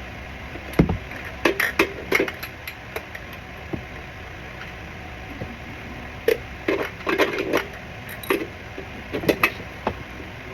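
Scattered metallic clicks and knocks of a hand tool being fitted and worked against a stuck oil filter under a car, in several short clusters, over a steady background noise.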